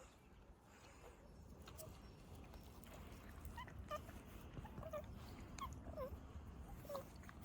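Newborn puppies giving faint, short high squeaks and whimpers, several a second from about three seconds in, over a low rumble.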